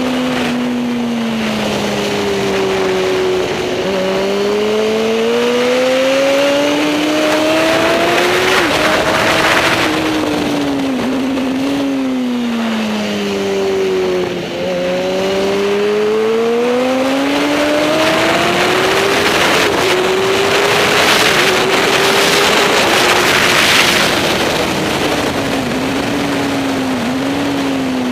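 Superbike racing motorcycle engine at high revs, its note climbing in long sweeps as it accelerates and dropping away in between, with short dips where it shifts gear.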